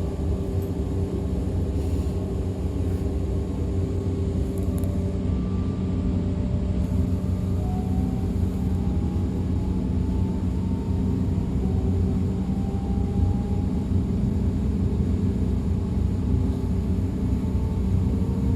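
DB Class 425 electric multiple unit running, heard from on board: a steady low rumble with a steady hum, and a faint whine that rises in pitch in short stretches from about eight seconds in.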